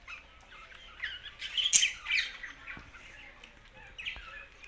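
Budgerigars chirping in short, scattered calls. The loudest calls come a little under two seconds in.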